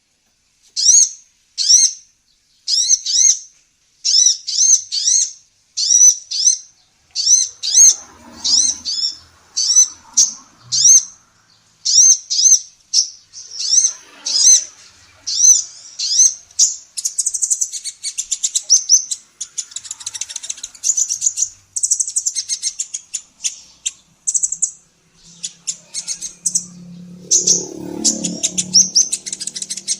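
Female sunbird calling: short, high, sharp chirps in pairs and triplets about once a second, turning into fast, dense twittering about halfway through. A faint low sound lies under the calls near the end.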